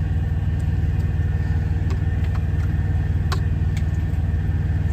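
Steady, low idle of a semi truck's diesel engine, with a few light clinks of a utensil against a pan as chicken is stirred.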